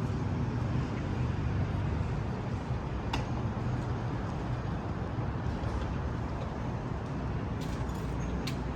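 Steady low rumble of outdoor background noise, with one sharp click about three seconds in and a few fainter clicks near the end.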